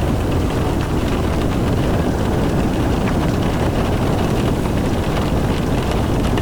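A car driving in the rain: a steady low rumble of tyres on the road and the engine, with faint scattered ticks of raindrops striking the car.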